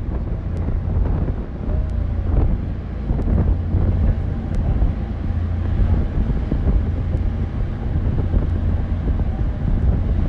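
Wind buffeting the microphone over a steady low rumble from a tour boat's engine and hull under way.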